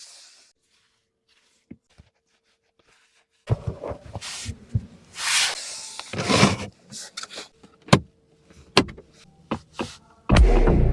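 Near silence, then from a few seconds in a series of short swishes and sharp clicks and knocks, like a car's doors and fittings being handled. Electronic music with a heavy beat starts just before the end.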